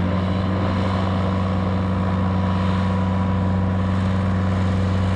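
Light aircraft piston engine and propeller running at a steady drone, an even hum with a constant low pitch and unchanging power.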